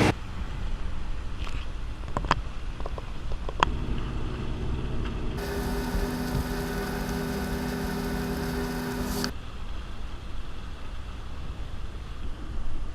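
A sailboat's engine running steadily under way while motor sailing, with a low drone throughout. A few sharp clicks come in the first few seconds, and for about four seconds in the middle a hiss and a steadier hum join in, then cut off suddenly.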